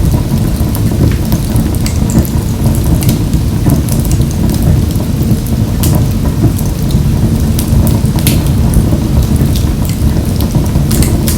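Wood fire burning in a wood-burning stove: a steady low rumble of flames with frequent, irregular sharp crackles and pops.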